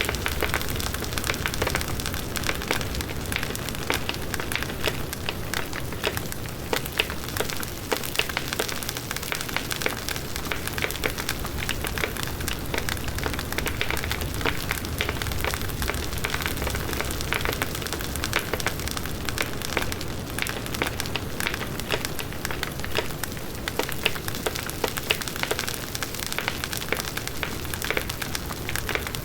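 Large wood bonfire burning, a dense steady crackle of many small pops over the low rush of the flames.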